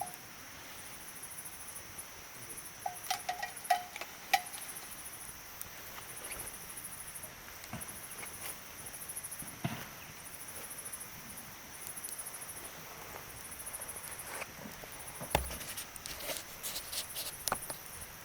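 Campfire crackling with scattered sharp pops, a few in quick clusters, over a steady high pulsing chirp of insects.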